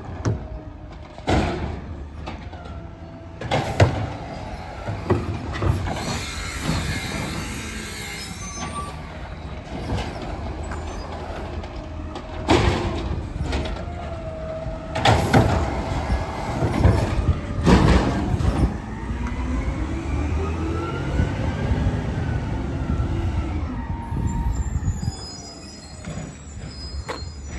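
Garbage truck at work: the engine runs under a series of loud clanks and knocks, and in the second half a whine rises and then falls in pitch.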